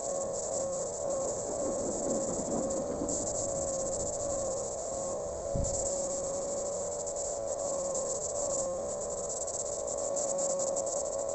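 Insects chirping steadily in a high, flickering hiss, over a steady droning tone.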